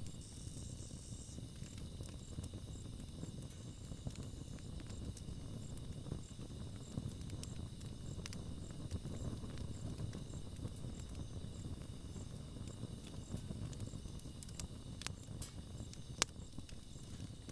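Campfire burning: a steady low rumble of flames with scattered crackles and pops of the burning wood, one sharp pop near the end.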